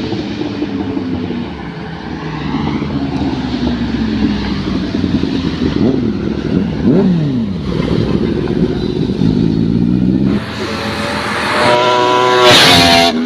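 Sport motorcycle engines revving and passing by, their pitch rising and falling, with a falling note as one bike goes past about seven seconds in. From about ten seconds a higher-pitched engine revs up hard toward the end.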